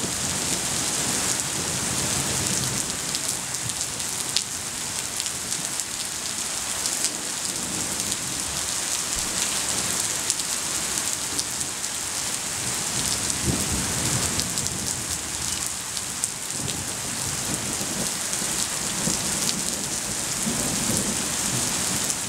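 Steady rain falling on pavement and roofs: a constant hiss with scattered sharp drop clicks. Low rumbles of thunder come in now and then, around the middle and again near the end.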